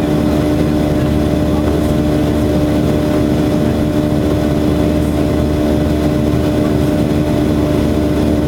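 Boeing 737-800 jet engines (CFM56-7B turbofans) running in a steady, loud drone with a constant hum tone over it.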